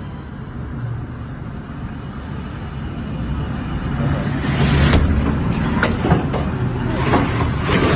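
Tornado wind roaring as a deep, steady rumble that grows louder about halfway through, with sharp knocks and cracks of debris striking.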